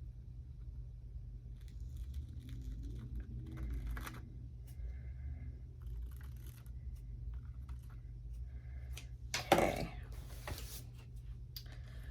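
Magazine paper cutouts being handled and torn: soft, scattered rustling and short tearing strokes over a steady low hum.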